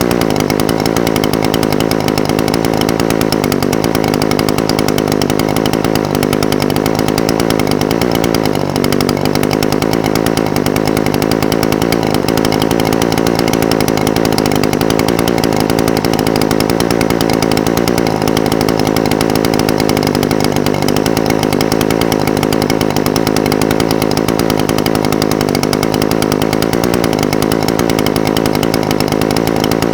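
Echo SRM-420TES brush cutter's two-stroke engine idling steadily, its pitch wavering a little.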